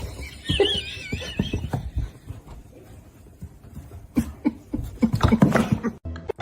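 A cat's high-pitched cry that wavers up and down, followed by scattered knocks and rustling.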